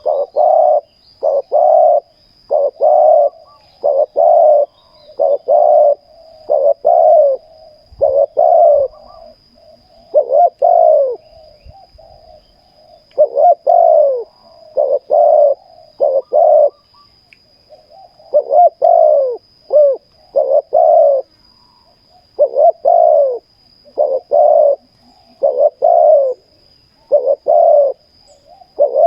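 Spotted doves cooing: loud, short coo notes repeated in quick runs of one to two a second, with a few brief pauses.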